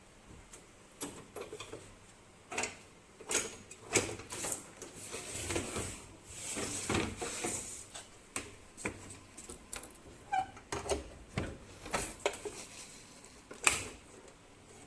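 Irregular clicks, knocks and rustling of uPVC window profiles being handled and set in a welding machine, with two sharper knocks about four seconds in and near the end.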